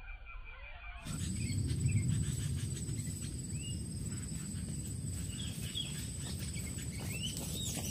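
Forest ambience: an insect's steady high-pitched drone with scattered short bird chirps over a low rumbling noise, all beginning abruptly about a second in.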